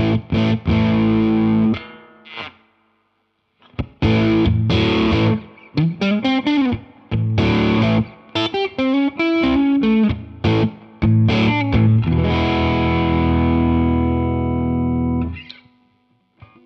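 Electric guitar played through a Jeds Peds Bird Strike preamp pedal, a clone of the Hudson Broadcast, with a distorted tone. A chord rings, then stops for about two seconds. Next comes a riff with notes bent in pitch, ending on a long held chord that is cut off about a second before the end.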